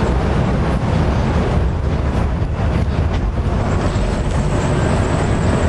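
Steady, loud, low rumble of outdoor background noise, with no speech over it.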